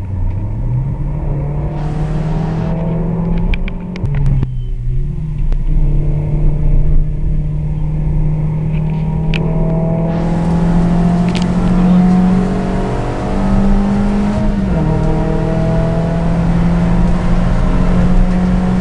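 Suzuki Swift Stage 2's four-cylinder engine heard from inside the cabin, running hard at high revs and climbing in pitch. The pitch dips briefly about four seconds in and again about fourteen seconds in, then rises again each time. There are a few light clicks around four seconds in.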